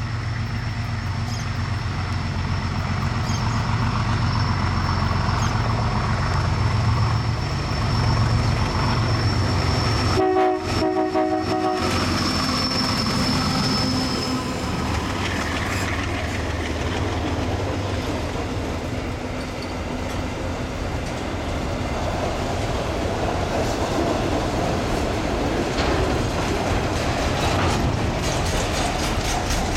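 Train consist running on the rails with a steady low rumble and wheel clatter; a horn sounds briefly about ten seconds in.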